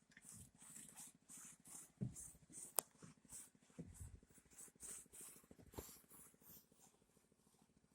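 Faint, repeated scraping strokes on a concrete surface, about two a second, with a couple of dull knocks and one sharp click about three seconds in.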